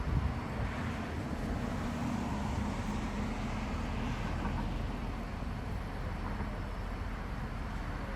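Steady street traffic noise with a low rumble, with an engine hum standing out for a few seconds in the first half.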